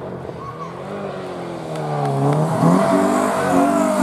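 Rally car engine accelerating hard, the revs climbing and dropping with gear changes, growing louder from about halfway through as the car approaches.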